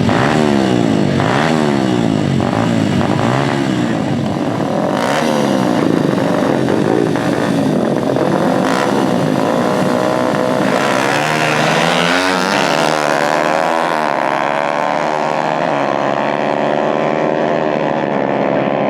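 Dirt-bike engines revving, the throttle blipped up and down over and over with a few sharp cracks. After about ten seconds the sound settles into a steadier, more even engine note.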